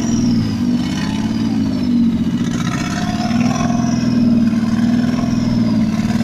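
Nissan Skyline RB20 inline-six engine in a custom motorcycle, running and being revved, its pitch rising and falling several times.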